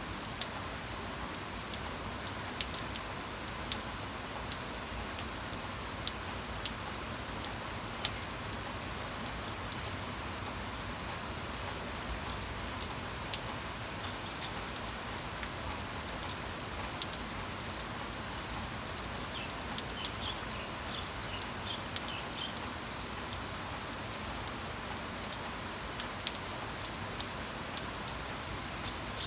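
Steady rain falling, with many individual drops ticking sharply on a surface. A few faint, high chirps come briefly about two-thirds of the way through.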